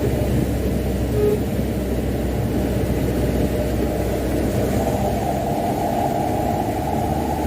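Mitsubishi Canter dump truck's diesel engine running steadily under a heavy sand load, with a low rumble of engine and road noise; the engine note strengthens a little about halfway through.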